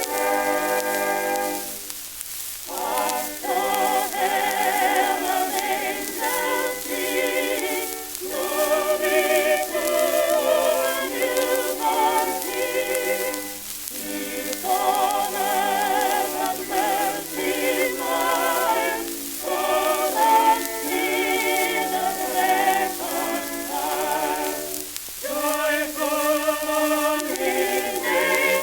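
Early shellac phonograph record of voices singing in harmony with wide vibrato, in phrases with short breaks between them. Sung tone sits in a narrow band, typical of an acoustic-era recording, under a steady crackle and hiss of record surface noise.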